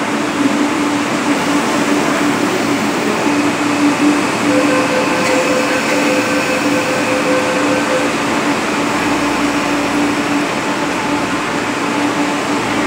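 MTR East Rail line electric multiple-unit train pulling in along a station platform: a steady running noise from the wheels and cars with a constant low hum. A higher steady whine joins for a few seconds in the middle.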